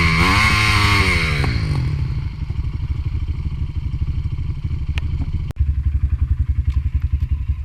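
Dirt bike's single-cylinder four-stroke engine revved with the bike on a stand, spinning the rear wheel to clear a tyre packed with mud. The revs rise and fall, drop away about two seconds in, and the engine settles to a steady pulsing idle, with a sharp click about five and a half seconds in.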